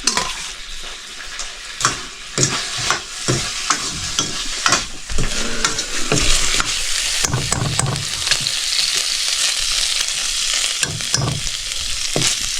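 Food sizzling as it fries in a pan, with a metal spoon stirring it and knocking and scraping against the pan at irregular intervals.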